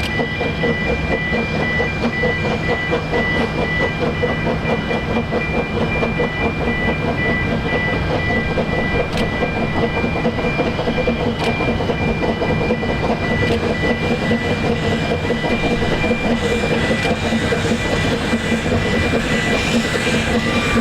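Narrow-gauge train running along the track: a steady rumble of wheels on rail with a thin, steady high ringing tone over it. Near the end a brighter rushing hiss grows louder.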